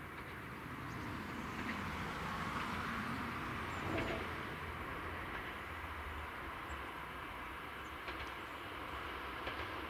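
Tango Explorer diesel express railcar approaching on straight track: a steady running noise of the train on the rails that grows gradually louder, with a few short clicks.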